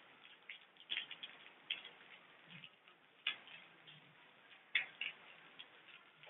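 Irregular ticking of water drops hitting a hard surface, faint, with a few louder drips standing out over a soft patter of rain.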